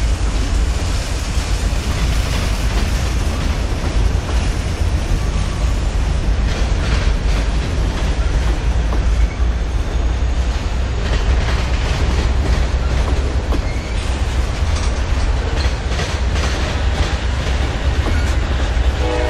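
Freight train cars rolling past close by: a steady, loud low rumble of steel wheels on rail, with repeated clicks of wheels over rail joints through the second half.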